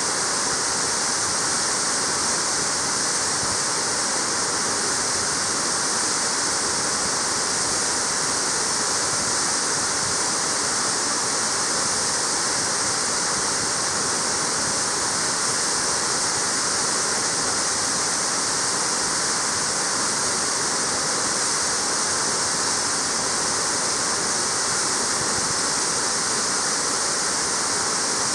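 Waterfall splashing and rushing steadily, a dense even hiss of falling water with no breaks.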